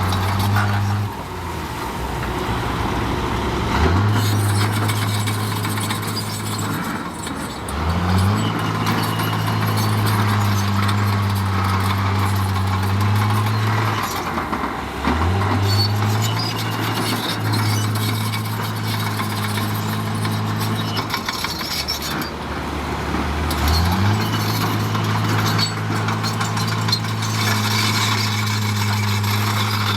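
Heavy diesel engine of earthmoving machinery revving up and holding high for several seconds, then dropping back, four times over. Light metallic clinking and rattling runs over it.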